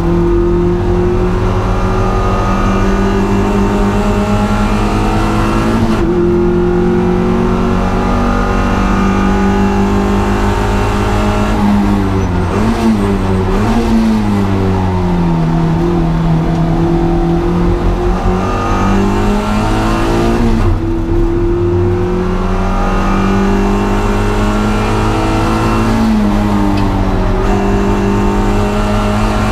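Honda Integra Type R (DC2) four-cylinder engine being driven hard on track, heard from on board. It runs mostly at steady high revs, and a few times (most clearly about halfway through) the pitch drops and climbs again as the car brakes, shifts and accelerates.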